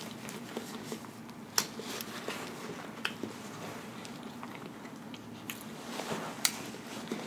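A person chewing food close to the microphone, with soft wet mouth sounds and a few sharp clicks.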